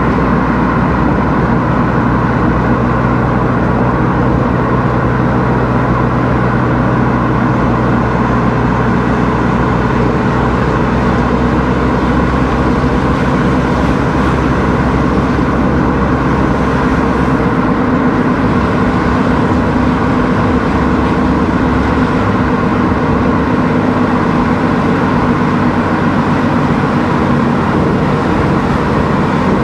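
A car driving steadily along a road, its engine and tyre noise running continuously, with the low engine hum shifting about halfway through.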